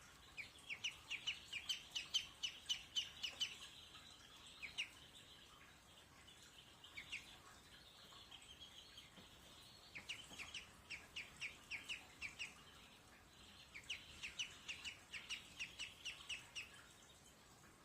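Small pet birds chirping in quick runs of short, downward-sliding chirps, about four a second, in three bouts with quieter stretches between.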